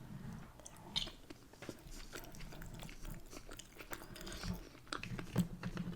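Close-up chewing, with many short wet mouth clicks and smacks scattered through it.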